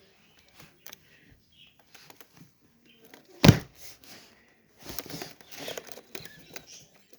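Scratchy rustling and crinkling, with one sharp knock about three and a half seconds in and a longer stretch of rustling after it.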